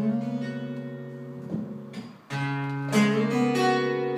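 Live acoustic guitar playing an instrumental passage between sung lines. A strummed chord rings and fades, then a new chord comes in about two seconds in, followed by another stroke.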